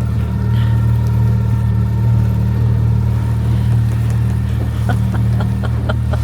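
Small boat's motor running at a steady speed, a low even drone, with a few faint knocks near the end.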